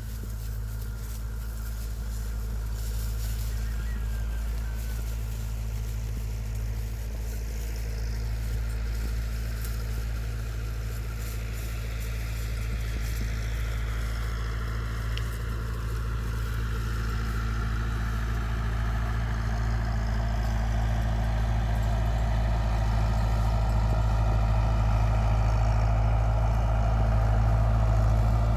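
A motor vehicle's engine running steadily with a low hum, slowly growing louder, with a faint whine that falls gradually in pitch partway through.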